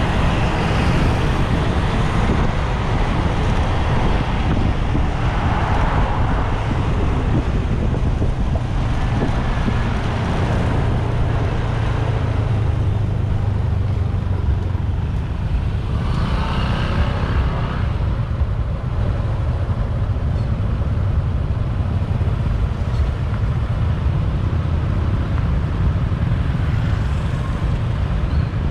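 Motorbike on the move with its engine running and steady road and traffic noise, under a heavy low rumble. A couple of louder swells come through, around a quarter of the way in and again past the middle.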